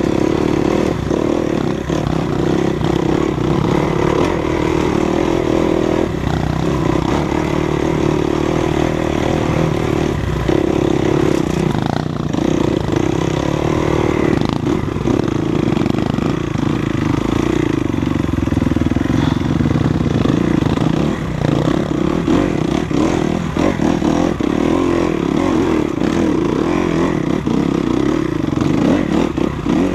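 Enduro dirt bike engine running steadily on a trail ride at a fairly even pitch, with frequent short knocks and rattles over it.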